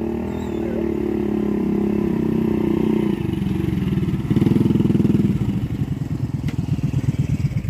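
Small engine running steadily, picking up briefly about four seconds in, then settling into a slower, uneven chugging.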